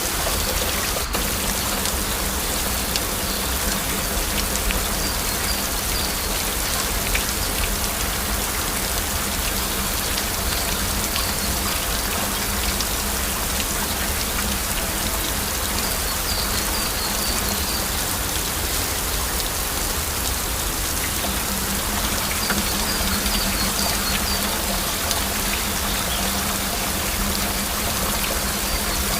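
Steady heavy rain, a dense even patter of drops. A faint high warbling comes and goes in the background.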